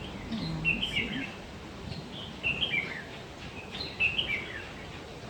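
Aviary birds chirping: three short phrases of a few quick high chirps each, about a second and a half apart.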